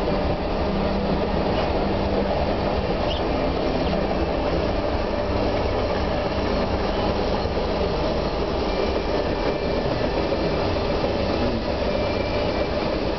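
Freight train of wood-chip hopper cars rolling past a level crossing: a steady, continuous rumble of wheels on rail, heard from inside a car.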